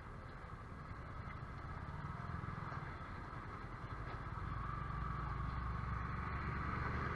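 Yamaha YZF-R15 sport bike's single-cylinder engine running, a steady low rumble that grows slightly louder toward the end.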